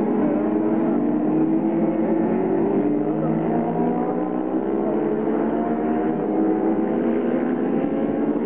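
Several racing motorcycle engines running together at a steady level, their pitch slowly rising.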